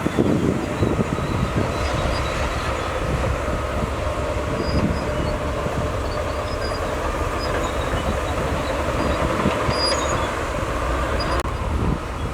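Shantui DH17C2 crawler bulldozer working: its diesel engine runs steadily while the steel tracks give short high squeaks. The sound changes abruptly near the end.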